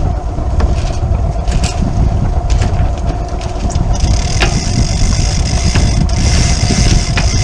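A sailboat's inboard engine running steadily under way, with a low rumble and a steady hum. A high hiss joins about four seconds in.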